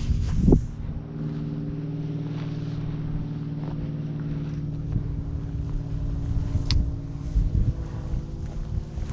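Vehicle engine running at a steady speed, with wind noise on the microphone. A few loud knocks come in the first half-second, and there is a brief high squeak about two-thirds of the way through.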